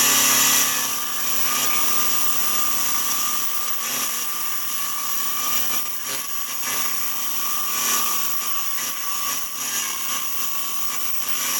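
10-inch bandsaw running steadily while its thin blade cuts a curved outline through a thick block of two glued-up 2x4s.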